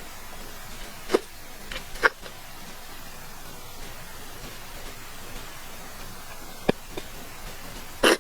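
Close-miked eating sounds: a few sharp wet mouth clicks and smacks of chewing, a cluster about a second to two seconds in and more near the end, over a steady hiss.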